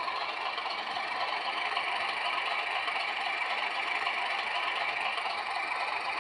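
O gauge model train running along the track: a steady whirring rattle of its motor and wheels on the rails.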